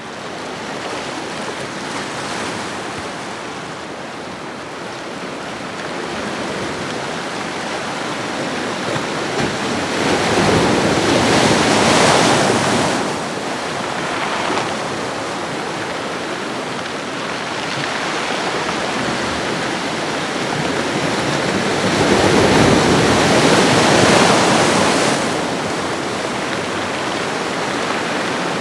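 Ocean waves washing onto a shore: a steady hiss of surf that swells twice into louder breaking waves, each surging for a few seconds and then easing back.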